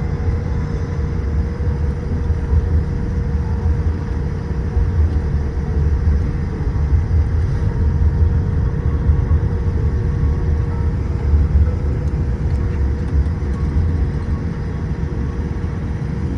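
Cabin noise inside a Boeing 787-8 on the ground after landing: a steady low rumble with a few faint steady tones from the engines and air systems, typical of taxiing.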